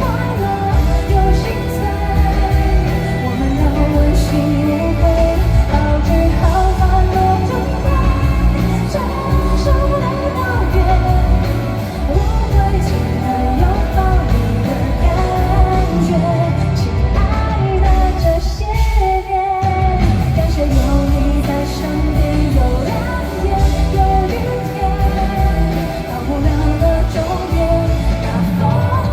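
Live pop-rock concert music: a band playing with a woman singing the melody, heard through the hall from the audience. The band thins out briefly about two-thirds of the way through, then comes back in.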